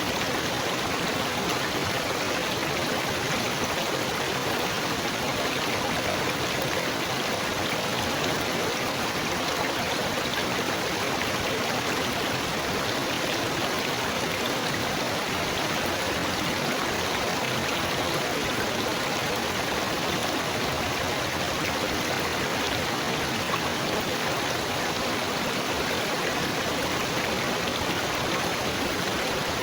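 Running water babbling and splashing steadily, like a small stream.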